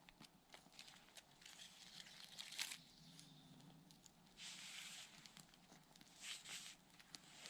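Faint crackling and rustling of twigs and birch bark at a freshly lit campfire: scattered small snaps, with a short hissy rustle about halfway through.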